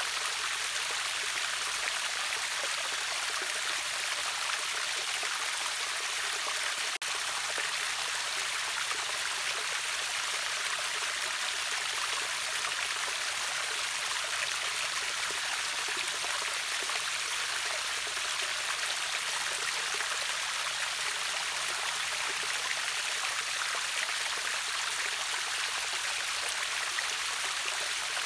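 Rushing water of a river waterfall, a steady even hiss with little low rumble, broken only by a very brief dip about seven seconds in.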